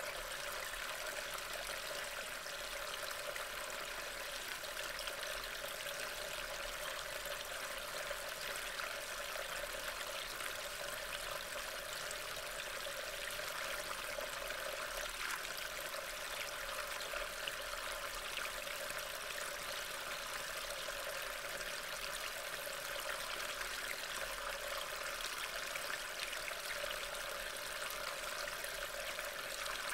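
Steady rain falling, an even hiss of water with no break, picked up by a trail camera's microphone.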